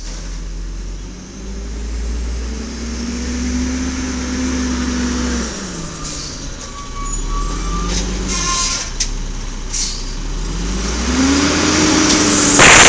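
Garbage truck engine revving up, holding and dropping back about three times, with a few short clanks in the middle. A loud air-brake hiss bursts out near the end.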